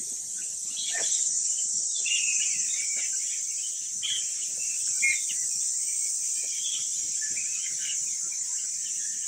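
A roosting flying-fox colony squabbling in the trees: many short squeaks and chirps overlapping, over a steady high insect drone.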